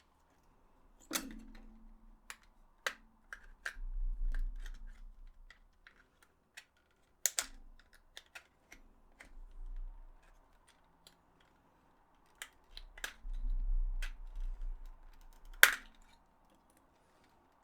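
Hands working on an opened PS4 DualShock 4 controller: scattered small plastic clicks and taps, with three sharper snaps (about a second in, about seven seconds in, and near the end) and low handling thumps in between.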